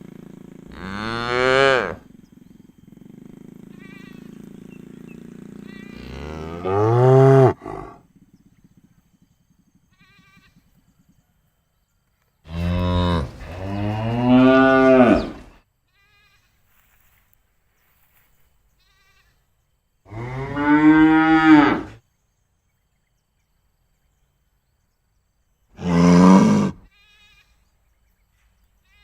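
Cattle mooing: about five long, loud moos a few seconds apart, each lasting one to three seconds.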